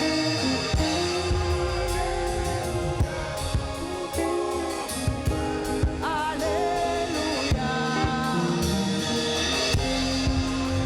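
Gospel worship band playing with a singer, over a drum kit keeping a steady beat.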